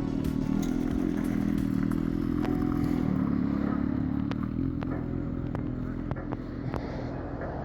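1982 Buick Century's engine running steadily, a low hum that eases off slightly near the end.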